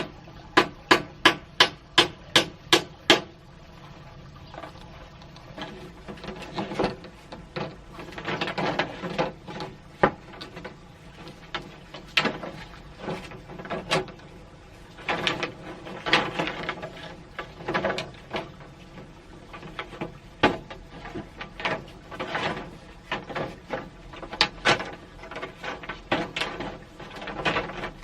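A run of about eight quick, evenly spaced sharp knocks in the first three seconds, like hammer blows. Irregular knocks and rustling follow.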